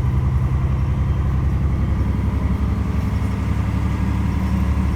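Mercedes-Benz O405 city bus's six-cylinder diesel engine running steadily, with a slight change in its low note about halfway through.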